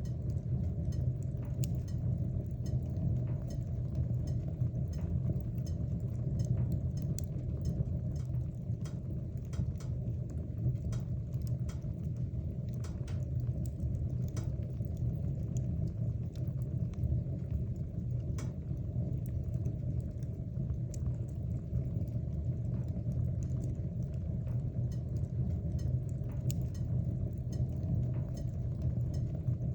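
Wood fire burning in a fireplace: a steady low rumble of flames with frequent scattered crackles and pops of burning wood.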